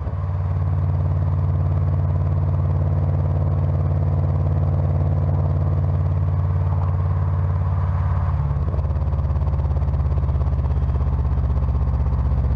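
2003 Subaru Forester XS flat-four running through an aftermarket exhaust with equal-length headers and a Spintech Prostreet muffler, holding a steady speed without revving. The tone changes slightly about eight and a half seconds in.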